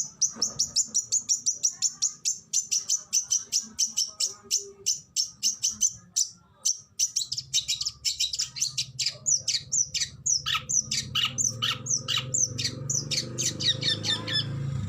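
Oriental magpie-robin (kacer) singing a rapid-fire string of sharp, high notes, about five a second, then breaking into quick downward-sliding whistles in the second half. A low steady hum sits underneath from about halfway.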